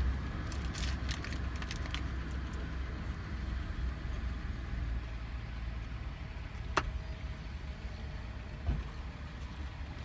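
A steady low rumble with a few faint clicks in the first two seconds. There is one sharp click about two-thirds of the way through and a soft thump near the end.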